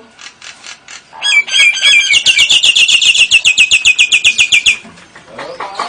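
Caged songbird singing a loud, rapid trill. A few varied notes lead into an even, fast chatter of about eight notes a second that lasts roughly three and a half seconds, then stops.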